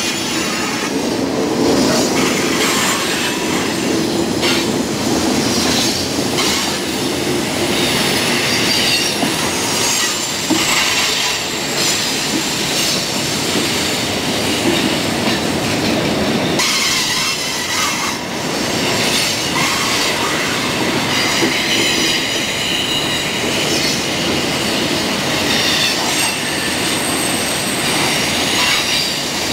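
Loaded coal hopper cars rolling past on curved track: steady rumble of steel wheels on rail, with wavering high-pitched wheel squeal that comes and goes as the flanges grind through the curve.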